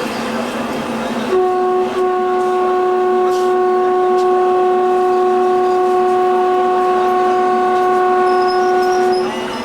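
Train horn sounding one long, steady blast of a single note, starting about a second in and lasting roughly eight seconds, with a brief dip near its start. It sounds over the rushing noise of the moving train.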